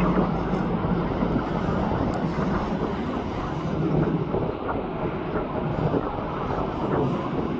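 Steady rumble of aircraft engines from a plane passing on the runway or overhead.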